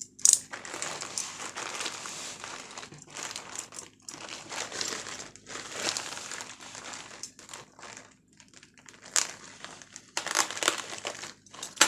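Courier packet being pulled open by hand, crinkling and crackling in irregular bursts, with a short lull and then a louder flurry near the end.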